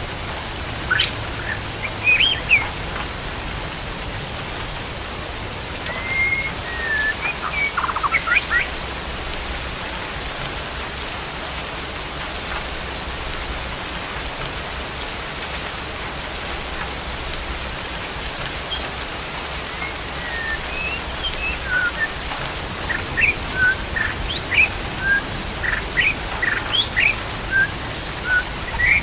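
Small birds chirping in short, scattered calls over a steady rushing hiss. The calls come in clusters near the start and about a quarter of the way in, then grow thicker over the last third.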